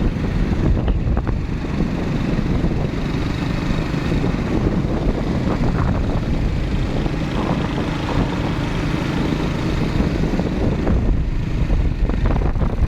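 Steady wind buffeting the microphone on a moving motorbike, with the bike's engine and road noise running underneath.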